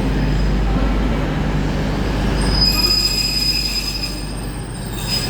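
A train running slowly through a station over a steady low rumble, with a high-pitched squeal that comes back strongly about halfway through and fades near the end.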